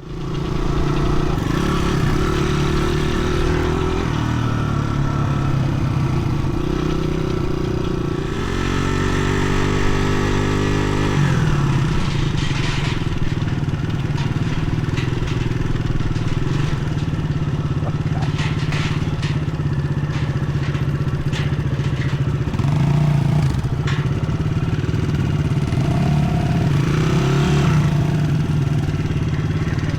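Dirt bike engine running under way. About a third of the way in its pitch rises as the rider accelerates, then settles back to a steady drone, with some scattered clatter.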